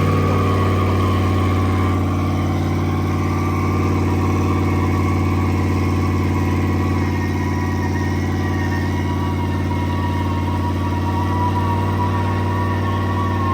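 Car engine idling steadily, with a thin, steady whine above the engine note that drops slightly in pitch near the end.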